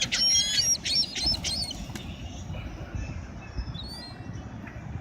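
Small birds chirping in a quick run of short, high calls during the first two seconds, with wings flapping, then a few fainter chirps over a steady low background.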